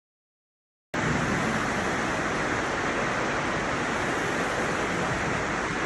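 Rain pouring down, a steady hiss that starts suddenly about a second in.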